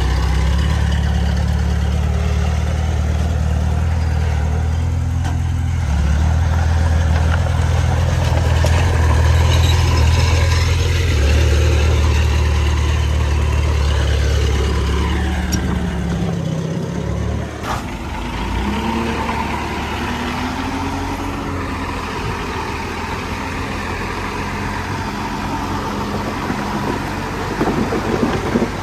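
Heavy diesel engine of earthmoving machinery running steadily with a deep drone. The drone drops lower about sixteen seconds in, with a single sharp knock soon after and some wavering higher tones near the end.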